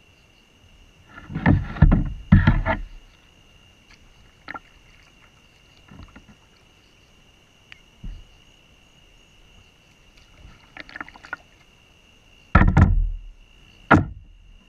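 Irregular knocks, bumps and scrapes from handling a kayak, in a few clusters, the loudest about two seconds in and again near the end, over a steady high chirring of crickets.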